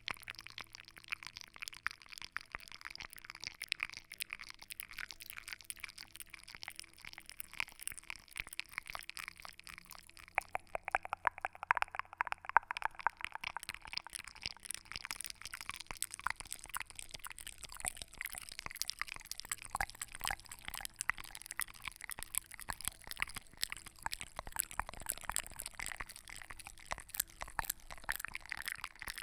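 A steady stream of soft, closely packed little clicks and crackles, like close-miked ASMR trigger sounds, somewhat denser around the middle.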